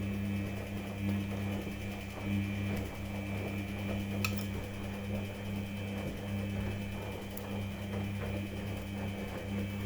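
Samsung washing machine running on a quick-wash programme: a steady motor hum that swells and fades every second or so, with a faint higher whine and a few light clicks.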